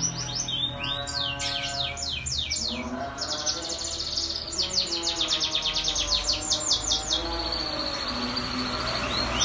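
Canary singing: fast trills of quick downward-sweeping notes, then a long held high note near the end.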